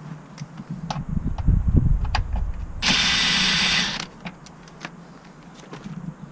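Low knocks and thumps, then a steady hiss lasting about a second midway, then scattered light clicks: handling sounds of hands-on work.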